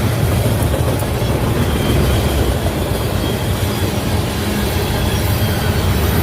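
Train passing on the tracks: a loud, steady rumble of wheels on rails.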